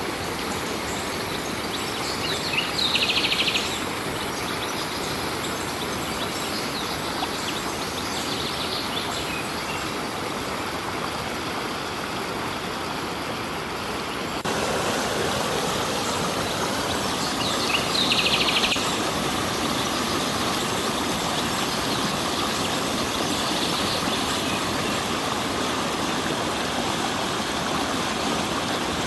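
Stream water running steadily, with a bird chirping in short high trills twice, a few seconds in and about two-thirds of the way through, and fainter chirps between. The water noise steps up in level about halfway.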